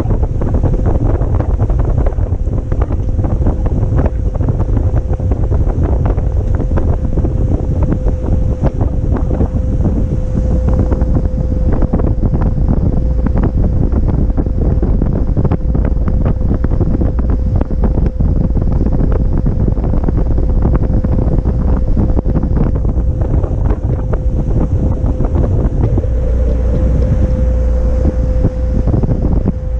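Loud, continuous wind buffeting on a GoPro microphone aboard a motor yacht under way, crackling over a steady single tone that runs underneath.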